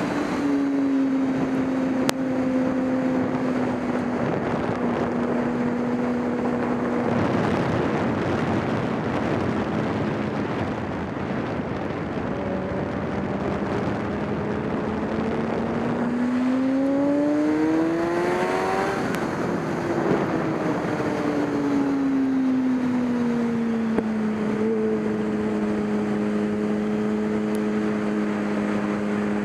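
Race car engine running at a steady speed, with a rushing hiss over it for several seconds a quarter of the way in. A little past the middle the revs climb smoothly, then fall back over a few seconds and settle steady again.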